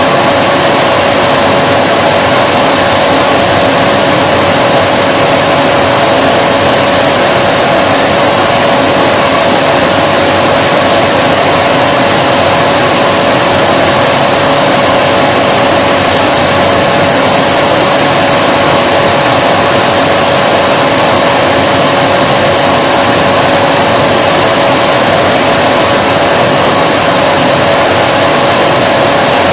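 Vacuum cleaner motor running continuously, a steady loud rushing hiss with a constant whine.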